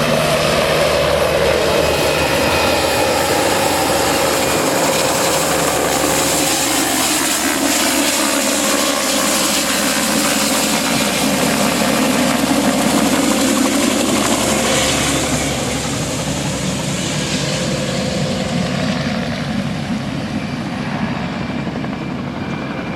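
Logging helicopter's rotor and turbine running loud overhead, growing fainter and duller over the last several seconds.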